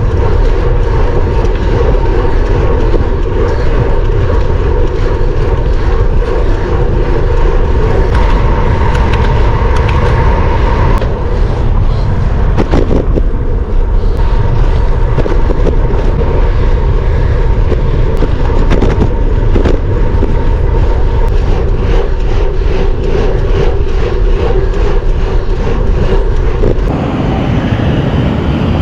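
Wind buffeting the microphone, mixed with road noise, while riding a road bike. It is loud and steady throughout, with a faint hum in it.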